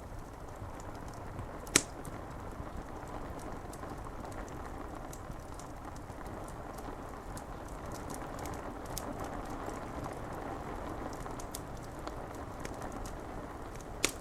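Wood fire crackling with frequent small snaps and a loud sharp pop about two seconds in and two more near the end, over a steady hiss of rain on window glass.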